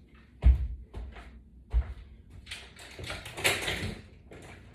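Exercise equipment being handled: two dull knocks a little over a second apart, then a stretch of clattering and rustling.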